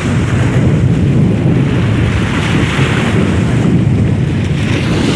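Wind buffeting the microphone in loud, uneven gusts, with the wash of sea waves underneath.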